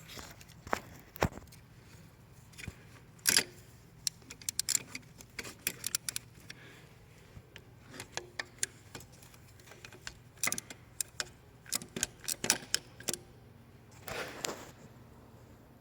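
Irregular sharp clicks and clinks of hand work on engine fittings and connectors, metal and plastic parts being handled, with a short rustle near the end.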